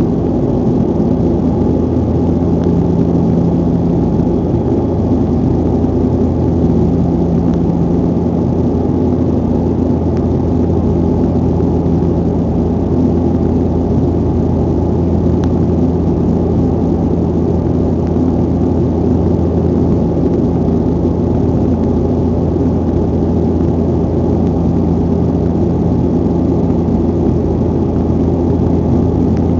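Malév Bombardier airliner's engines running steadily in the climb after takeoff: a constant loud drone with several steady low hums.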